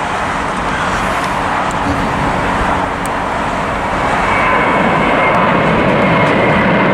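JetBlue jet airliner's engines at takeoff thrust: a steady jet noise with a faint whine in it, growing louder about halfway through.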